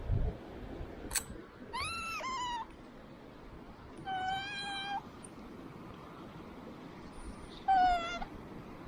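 A cat meowing three times: the first call rises and falls, the second is held on one pitch for about a second, and the last is short and the loudest. A dull thump comes right at the start, with a click about a second in.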